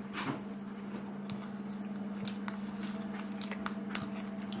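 A steady low electrical hum with scattered faint clicks and light taps, typical of small handling or eating noises.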